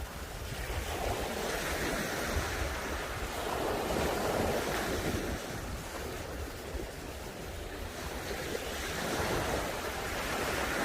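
Sea waves breaking and washing up on a beach, the surf swelling and ebbing every few seconds. Wind buffets the microphone with a low rumble underneath.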